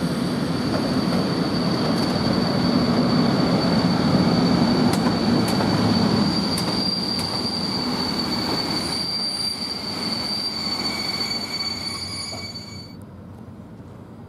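PKP EU07 electric locomotive and its passenger coaches running through a station: a loud rumble of wheels on rail under a steady high-pitched wheel squeal, with a few sharp clicks around the middle. The squeal stops abruptly about a second before the end and the train noise falls away.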